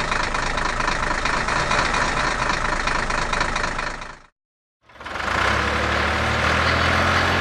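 A truck engine running steadily. It cuts off about four seconds in, and after a short silence a deeper engine hum carries on.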